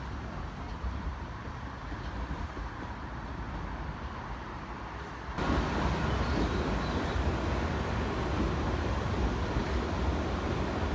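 Steady rumble and hiss of vehicle noise with no distinct events, turning abruptly louder about five seconds in.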